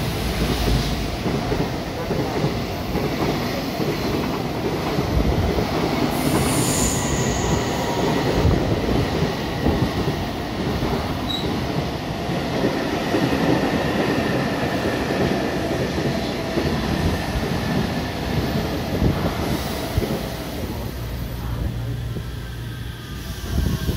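A freight train hauled by a JR Freight EF210 electric locomotive runs through without stopping, its wheels clattering steadily on the rails. Meanwhile a JR West 225 series electric train draws in alongside the platform, and near the end its motor whine falls in pitch as it brakes to a stop.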